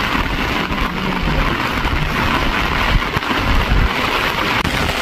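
Rain falling steadily as an even hiss, with an uneven low rumble underneath.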